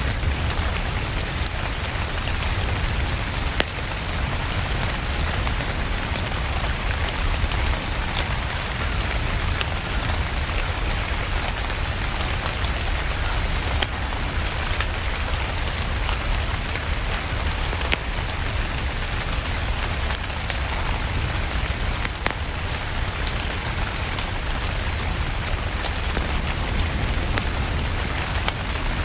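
Steady rain with a low rumble underneath, scattered with sharp pops and crackles from a wood fire in a fireplace.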